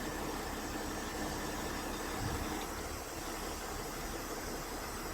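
Heavy tow truck's diesel engine idling steadily, with an even hiss over the running.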